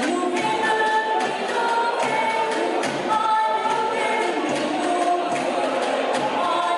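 Live Portuguese folk music from a cavaquinho group: several voices singing together in held notes over strummed cavaquinhos, recorded from the audience with room ambience.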